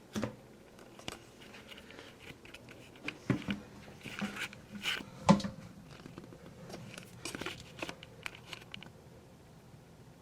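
Handling noises while checking a toilet's water supply connection for leaks: scattered light knocks, clicks and rustling, the loudest a sharp knock about five seconds in.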